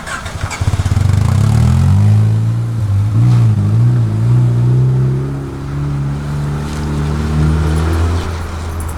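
1991 Honda CRX Si's four-cylinder engine running under load as the car drives off, its pitch climbing and dropping through the revs before settling. The engine had been seized and filled with diesel, and it is running again.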